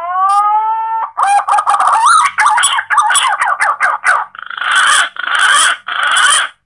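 Green pigeon (punai) call played as a hunting lure: a rising whistled note, a quick run of wavering notes, then three harsh, rough notes of about half a second each before it cuts off.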